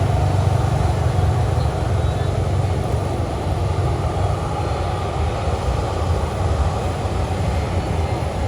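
Steady low rumble of a vehicle running, even throughout with no distinct events.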